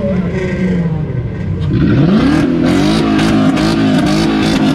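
A car engine revving hard, climbing quickly about two seconds in and then held at high revs, wavering up and down.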